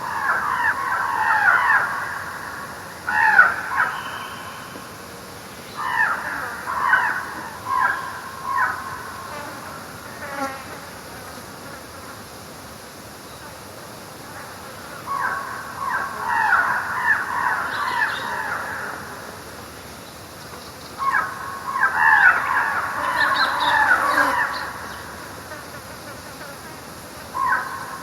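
An insect buzzing close by in repeated passes, each lasting one to four seconds, coming and going several times over a faint steady background hiss.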